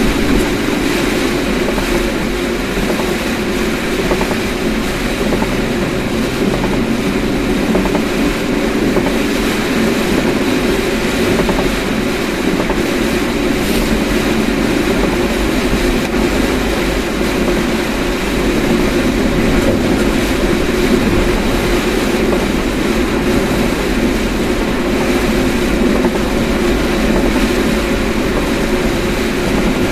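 Steady road and engine rumble heard from inside a moving car, with no break or change.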